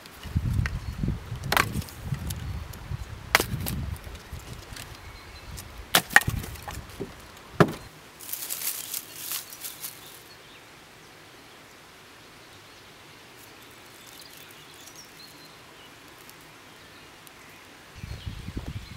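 Firewood being broken up: several sharp, dry cracks and knocks spread over the first eight seconds, followed by a brief hiss and then a quiet stretch.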